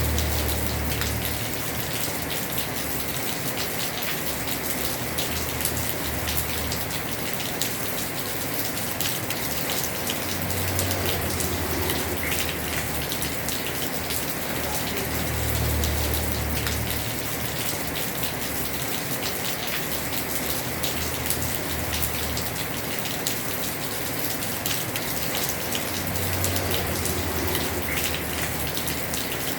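Heavy rain falling steadily on a house roof, with many individual drops ticking. A low rumble swells and fades about four times.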